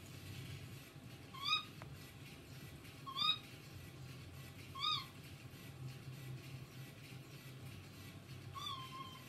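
Cockatiel calling four times: three short up-and-down chirps about one and a half seconds apart, then after a pause a longer call that ends in a held note.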